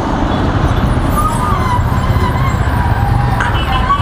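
Wind buffeting on a lavalier microphone that has no furry windscreen yet, together with motorcycle and road-traffic noise, as a steady low rumble while riding. A faint wavering high tone joins in about a second in.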